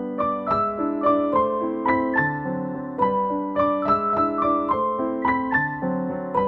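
Background music: a gentle piano melody of evenly paced notes over held lower chords.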